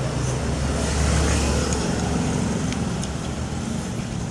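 Road traffic: a motor vehicle passing close by. Its low engine rumble and tyre hiss swell about a second in and then ease off.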